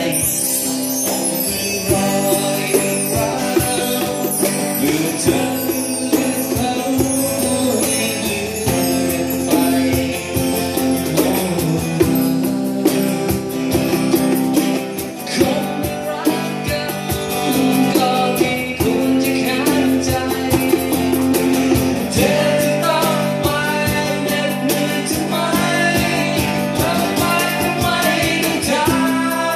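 Rock band music with guitars and drums, cymbals hitting in a steady beat.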